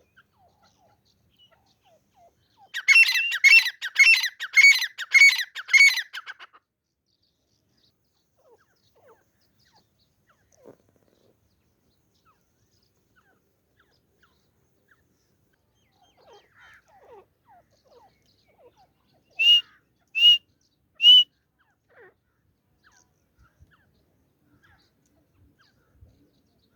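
Gamebird calling: a run of about six loud, harsh calls in quick succession a few seconds in, then, much later, three short sharp calls spaced under a second apart.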